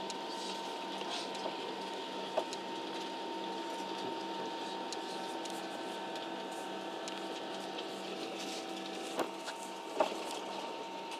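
Jet airliner's engines running at low power before take-off, heard inside the cabin as a steady drone with a steady whine, and a few light knocks about two seconds in and near the end.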